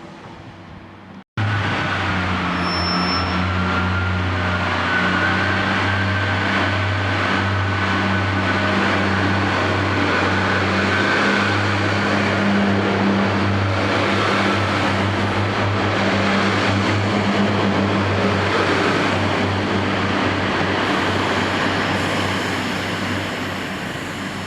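Train running at a steady speed: a continuous rumble with a steady low hum, cutting in abruptly about a second in and easing off slightly near the end.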